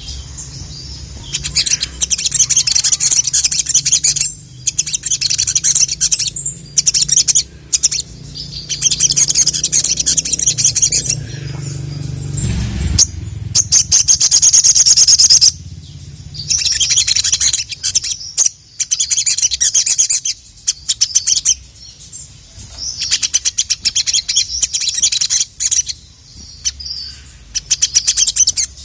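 Sogon (sogok ontong), a small nectar-feeding sunbird, singing in long runs of rapid, high twittering chirps broken by short pauses. A low hum lies underneath for the first half.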